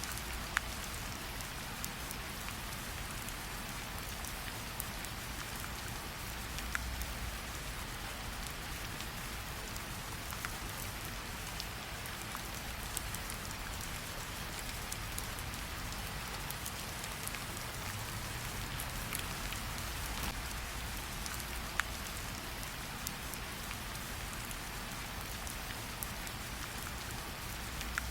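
Steady rain falling, with a few scattered sharp clicks and a low rumble underneath.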